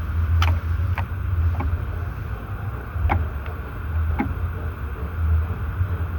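White-rumped shama giving a few short, sharp down-slurred notes spaced about a second apart, over a heavy low rumble of wind on the microphone.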